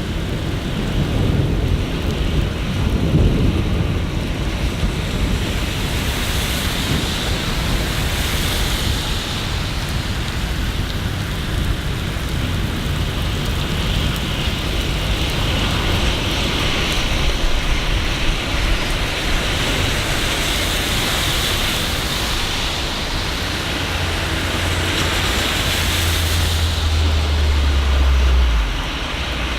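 Rain falling steadily as a continuous hiss, with a low rumble swelling underneath near the end and cutting off suddenly just before the end.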